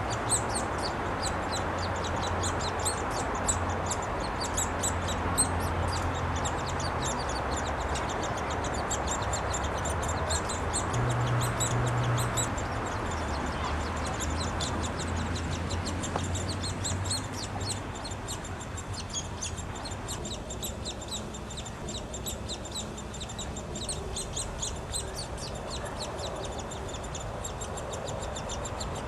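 Downy woodpecker nestlings in the nest cavity calling nonstop, a rapid high chatter of many short chirps, the begging of young at feeding time. A steady low hum runs underneath.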